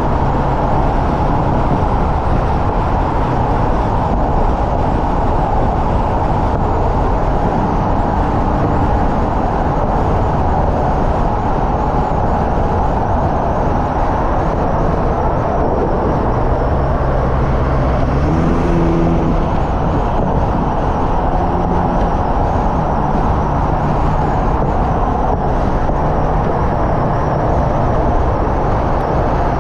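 Hyundai Elantra N's turbocharged four-cylinder engine running hard at track speed, mixed with loud wind and tyre noise. The engine note climbs in steps about halfway through.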